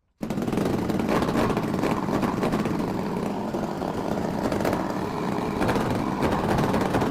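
Small engine of a homemade mini motorcycle running steadily, then cutting off suddenly near the end.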